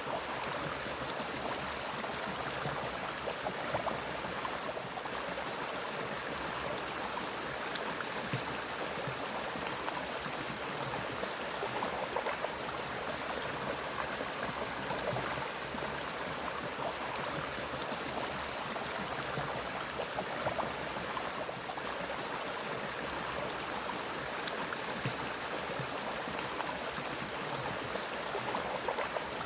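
Forest mountain stream flowing steadily, with a constant rush of water. A steady high-pitched whine sits over it.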